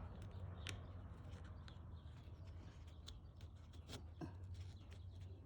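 Faint clicks and light scraping of small metal parts being handled as a pin is fitted back into a garage door opener's trolley carriage, over a low steady hum.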